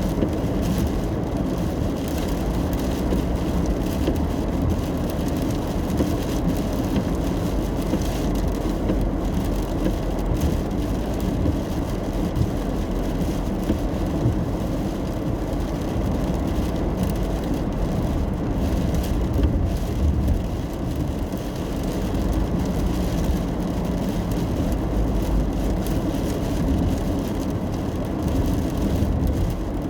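Inside a car on a rainy drive: steady low road and engine noise, with rain pattering on the roof and windshield.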